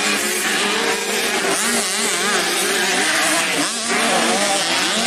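Several small motorcycle engines racing together in an 85cc grasstrack race. Their overlapping pitches rise and fall as the riders rev and back off the throttle.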